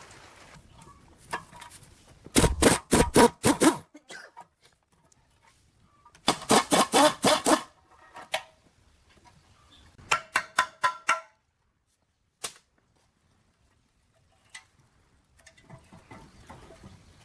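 Metal being struck with a hammer in three quick runs of about seven blows each, the third run ringing like steel, then one more single blow.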